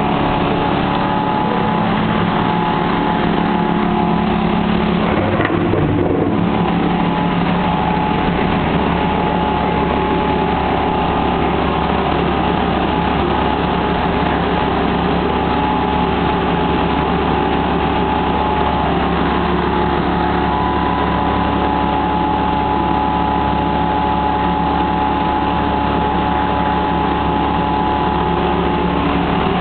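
A motor running steadily with a droning hum, its tones shifting slightly about six seconds in.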